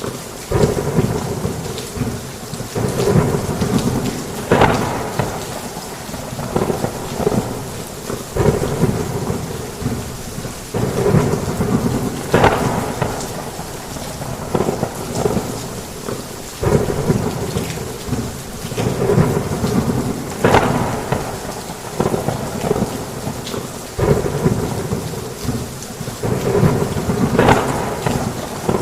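Heavy rain falling steadily, with thunder rumbling that swells up every few seconds.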